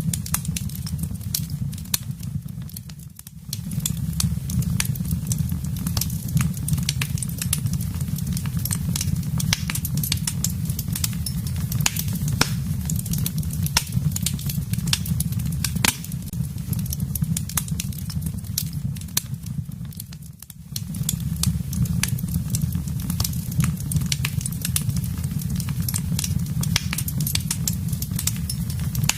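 Wood fire in a fireplace crackling: frequent sharp pops and snaps over a steady low rumble. The sound dips briefly twice, a few seconds in and about two-thirds of the way through.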